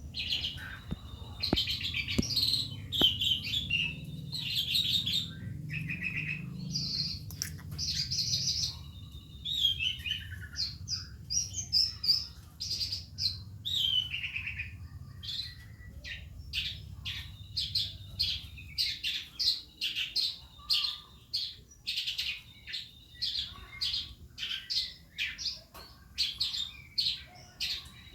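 Young calandra lark practising its song: a long, varied run of chirps and warbled phrases. About two-thirds of the way through it turns into a fast string of short, evenly repeated notes. This is the rambling song of a bird still learning.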